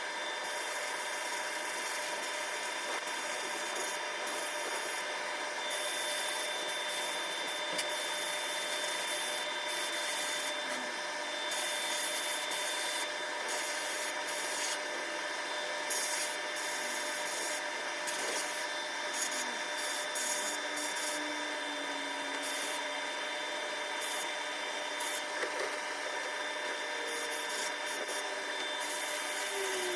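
Continuous abrasive rubbing on metal during rust removal, a steady scratchy noise with irregular brief harsher strokes throughout.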